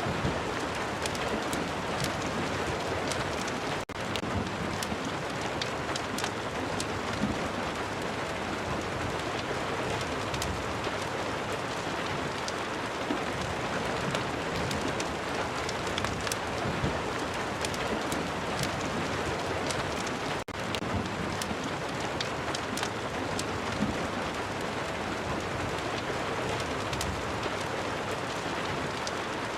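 Ambient rain and fireplace soundtrack: steady rain with many scattered sharp crackles and ticks over it. The sound drops out for an instant twice, about four and twenty seconds in.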